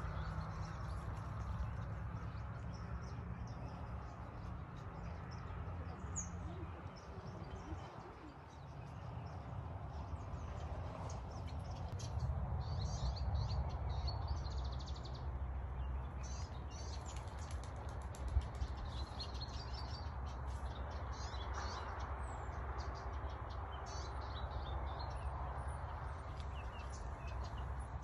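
Small songbirds chirping and twittering, busiest through the second half, over a steady low rumble.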